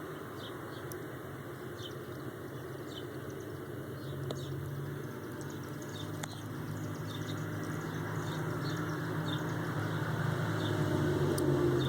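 Cat drinking water, dipping his nose and tongue in: faint, irregular small splashes and laps over a steady low hum.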